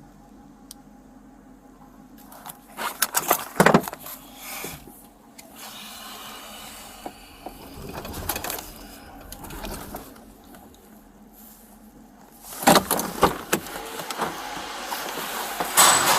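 Scattered knocks and rattles inside a police patrol car, in two short clusters about a quarter and about four-fifths of the way through, then a steady rushing noise that builds near the end.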